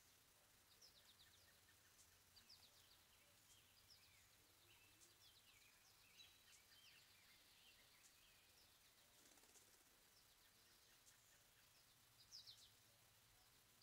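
Faint bird chirps and short descending calls, many of them all through, louder near the end, over a steady hiss.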